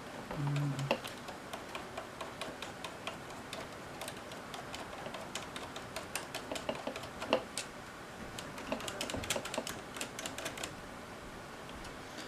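Irregular small clicks and taps of hands handling the parts of a Betacam SP camera and small tools during cleaning, thickest in the second half, with a brief low hum about half a second in.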